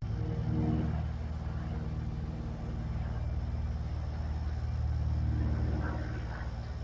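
Low, steady engine drone with an even hum that holds for the whole stretch.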